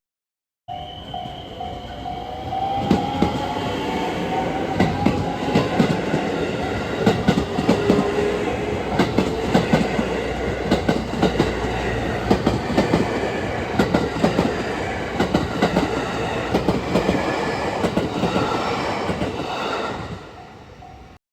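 Electric train running past on the rails, its wheels clacking over the rail joints. A motor whine rises in pitch over the first few seconds, and the sound fades near the end.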